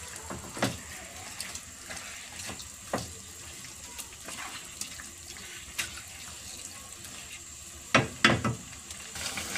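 Marinated chicken sizzling and bubbling in its own juices in a wok, with a wooden spatula knocking and scraping against the pan as it is stirred; the loudest knocks come in a quick cluster near the end.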